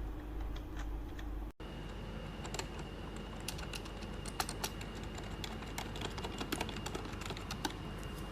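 Typing on the XUNFOX K82 membrane gaming keyboard: quick, irregular key presses, with a brief break in the sound about one and a half seconds in.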